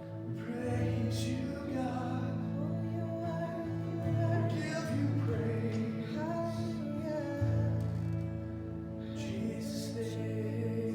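Worship song: a voice singing a slow melody over held, sustained chords.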